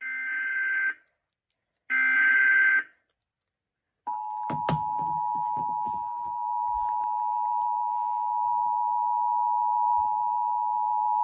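Emergency Alert System alert on TV: the last two SAME header data bursts, short warbling screeches about a second each and two seconds apart, then the steady two-tone attention signal for about eight seconds, announcing a flood warning.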